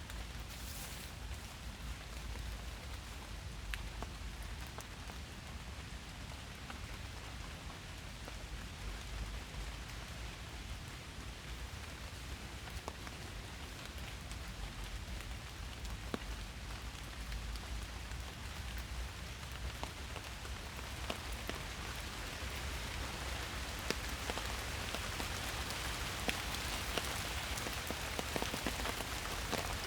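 Steady rain falling in a forest, an even hiss with scattered individual drops ticking, growing a little heavier in the last third.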